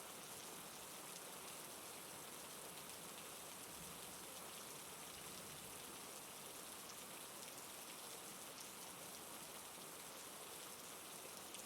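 Steady, soft rain: an even patter of raindrops.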